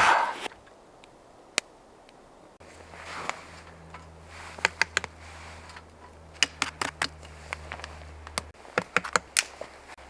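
A series of irregular sharp clicks and taps, as from handling small hard objects, over a steady low hum that stops about eight and a half seconds in.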